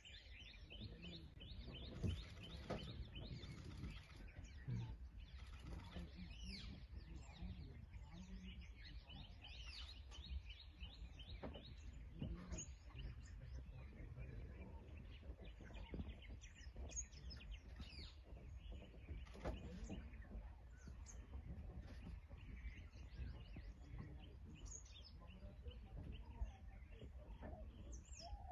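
A chorus of birds chirping and calling, dense, overlapping short chirps throughout, over a low steady rumble.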